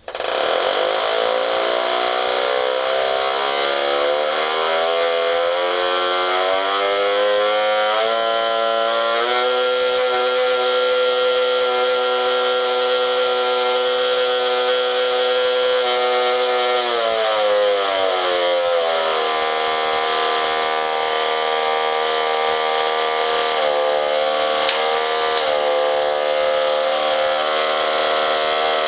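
The 1965 Marx Big Job toy dump truck's "Zazoom" motor-sound simulator running, a really loud engine-like drone. It starts suddenly, climbs in pitch over the first several seconds, holds steady, then drops to a lower steady pitch a little past halfway.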